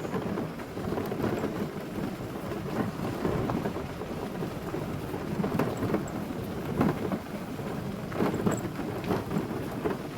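Car driving along a forest road: a steady low road-and-tyre rumble with irregular crackles and knocks.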